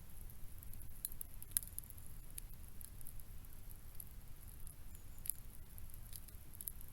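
Scattered faint crackles and clicks, irregular and uneven in strength, over a low steady rumble.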